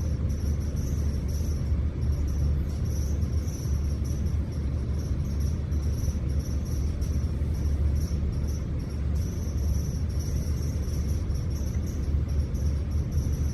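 Steady low rumble of room background noise, with a faint high, pulsing chirr that comes and goes like insects trilling.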